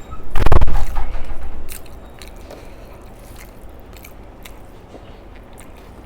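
Close-miked eating: a loud, deep bite and crunch about half a second in, lasting about a second, then quieter chewing with scattered mouth clicks.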